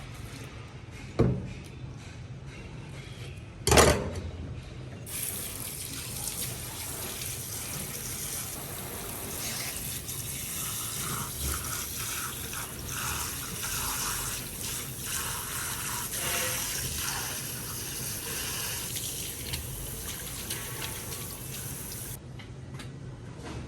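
Two sharp knocks, then water running from a tap into a sink: it starts about five seconds in and runs unevenly for about seventeen seconds before cutting off.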